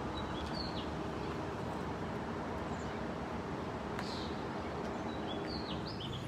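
Steady outdoor background noise with a few short bird chirps, a couple about half a second in and a few more near the end.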